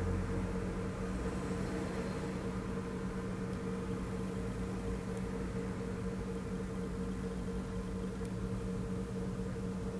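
Bobcat E80 excavator's diesel engine running at a steady speed, an even hum with no changes.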